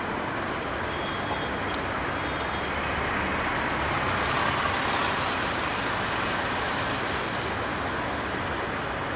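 Steady rain: an even hiss that swells a little about halfway through.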